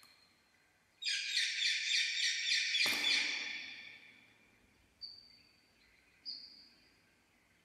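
Pet Indian parakeet giving a loud, harsh, pulsing screech for about two seconds, starting about a second in and cut off by a sharp knock. Two short, high single calls follow near the end.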